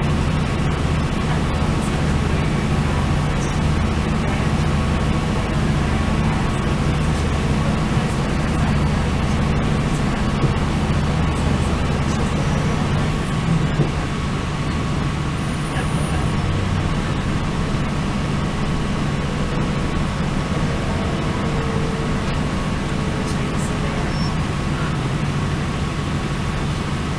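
Diesel passenger train running along the line: a steady low engine drone with wheel and rail noise. The low drone eases slightly about halfway through.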